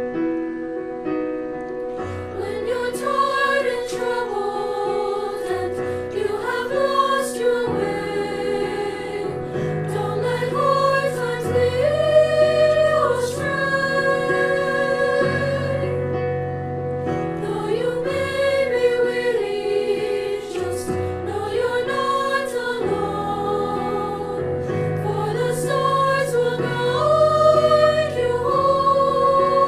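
School choir singing a holiday song with piano accompaniment, the melody rising and falling in long held phrases over steady bass notes.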